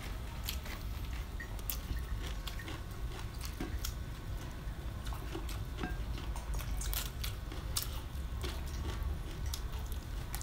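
Eating by hand: chewing, and the crisp rustle of fresh herbs and leaves being plucked. It comes as scattered small clicks and crackles over a steady low hum.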